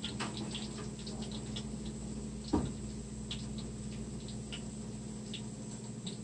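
Mashed potato patties frying in oil in a skillet: scattered small crackles and pops of spitting oil over a steady low hum. One louder knock about two and a half seconds in.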